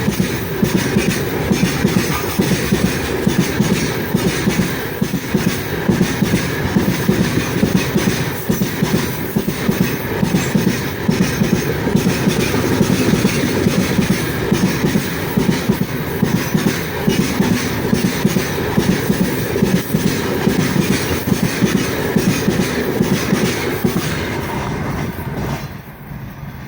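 Freight train wagons rolling past, wheels clattering over the rail joints in a rapid, continuous rhythm. The sound drops off sharply near the end.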